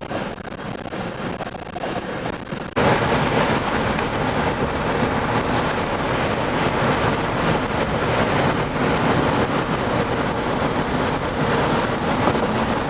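Strong storm outflow wind rushing, with a steady noisy roar that jumps suddenly louder about three seconds in.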